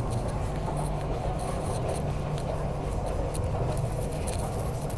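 Steady interior running noise of an MTR Q-Train, a CRRC Qingdao Sifang electric multiple unit, moving between stations: an even low hum with no sharp events.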